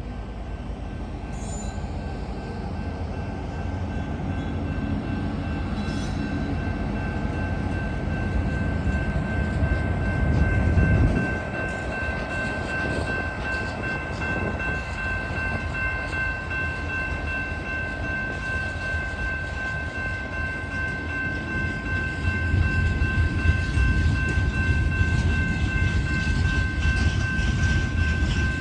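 Loaded coal freight train on the move, with diesel locomotives rumbling; the rumble swells about ten seconds in and again near the end. Several steady high-pitched tones ring over it for most of its length.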